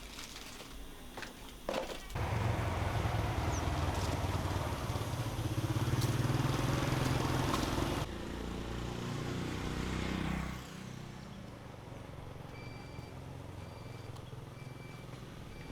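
Motorbike engine starting about two seconds in and running loudly, then dropping lower at about eight seconds and dying away at about ten and a half. Near the end come four faint short beeps, evenly spaced.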